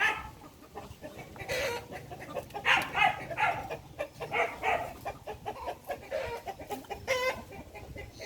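Chickens clucking, a run of short calls scattered throughout, with a warbling call about seven seconds in.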